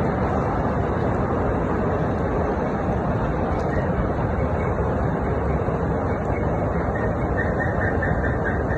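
Steady, loud mechanical rumble of heavy industrial machinery, with faint high squeaks a little before the end.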